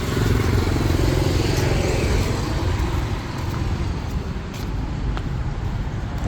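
Street traffic: a motor vehicle's engine running close by over a steady low rumble of passing traffic.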